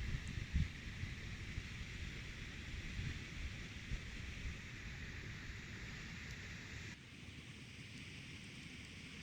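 Steady hiss with wind buffeting the microphone as an irregular low rumble, strongest in the first few seconds. The hiss drops suddenly about seven seconds in.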